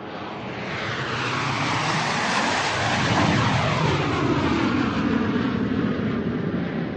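Airplane flying overhead: an engine roar that swells over the first three seconds and then slowly fades, its tone sweeping as it passes.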